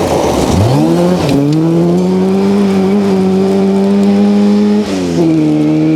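Rally car engine under hard acceleration: the revs climb fast, dip briefly about a second in, then hold high and steady. Near the end they drop sharply at a gear change and pick up again.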